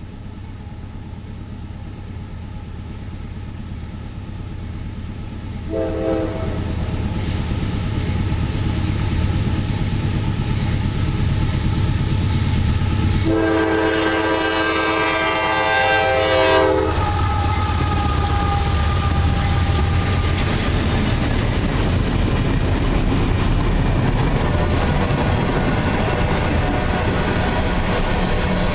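CSX freight train led by a GE CW44AH diesel locomotive approaching and passing. The rumble builds, the horn sounds a short toot about six seconds in and a long blast of about three and a half seconds from about thirteen seconds in, then the locomotive and cars rumble steadily past.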